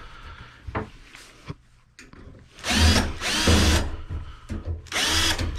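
Power drill run in three short bursts, each spinning up with a rising whine, while backing screws out of a computer case. A few soft clicks come before the first burst.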